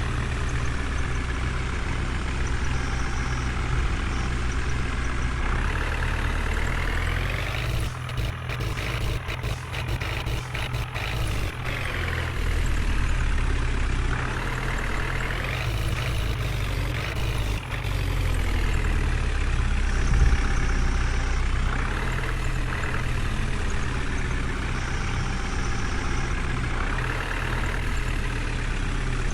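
Heavy diesel engines running under load, revving up and down several times over a steady low rumble.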